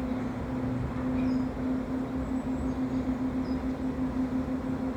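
A steady engine hum with a low rumble; the hum holds one pitch and flutters evenly throughout.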